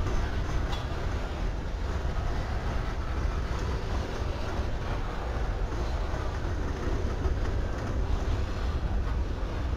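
Freight cars rolling slowly past on steel rails, a steady low rumble of wheels and running gear.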